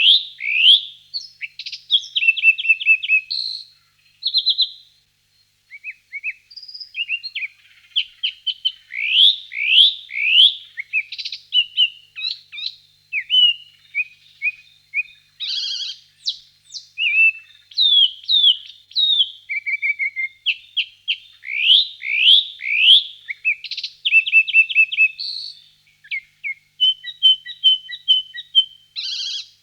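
Songbirds singing: a dense, varied run of quick down-sweeping chirps, repeated notes and short trills, one phrase after another, with a faint steady high tone underneath.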